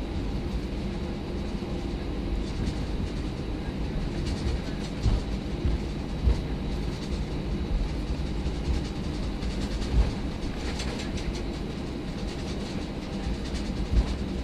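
Airbus A319 cabin noise: a steady low rumble with four sharp thumps spaced through it.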